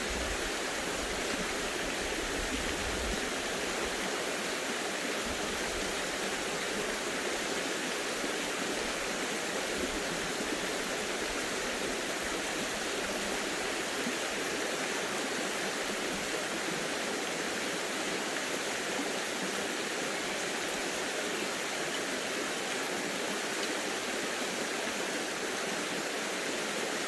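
Running water of a stream: a steady, even rushing hiss.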